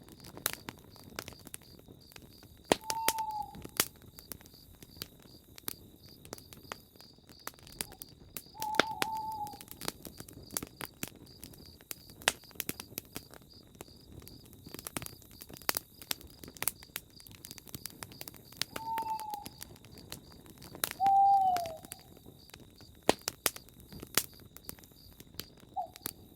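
Campfire crackling with scattered sharp pops, over a steady high chirring. A bird hoots about five times, each a single short call falling in pitch.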